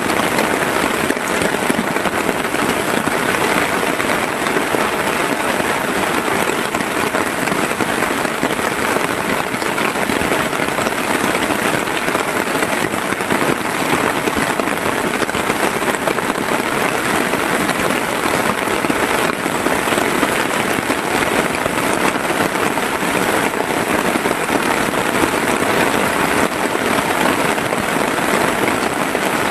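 Heavy rain falling steadily, a dense even patter on a surface.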